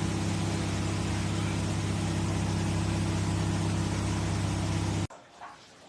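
Sharp 20-litre basic microwave oven running: a steady low mains hum over a fan-like hiss, cutting off suddenly about five seconds in.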